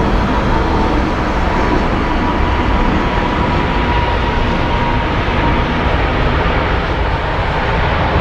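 Jet airliner's engines, loud and steady, with a thin whine above the noise.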